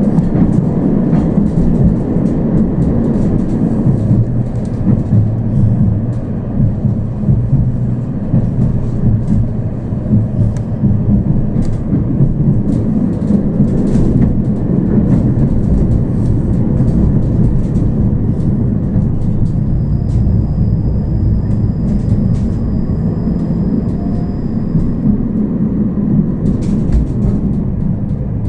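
Tram running along the track, heard from inside the car: a steady low rumble of wheels on rails with scattered clicks and knocks. A thin high whine joins about two-thirds of the way through for several seconds and returns near the end.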